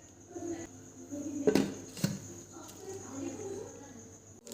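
Low, indistinct voices in the background, with two sharp clicks or knocks about a second and a half and two seconds in, the first the louder. A faint steady high-pitched whine runs underneath.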